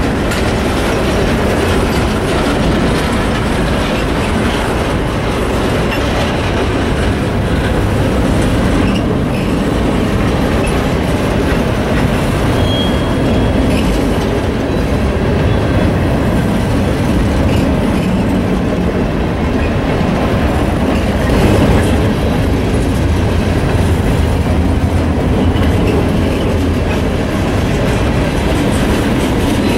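Train rolling past at close range: a steady rumble and clatter of railcar wheels on the rails, with a brief high wheel squeal partway through.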